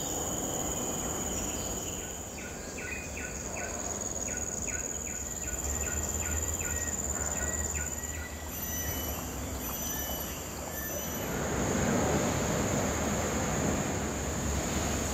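Forest insects singing, a steady high whine with a run of quick repeated chirps through the first half. About two-thirds of the way in a broad rushing noise swells up beneath them.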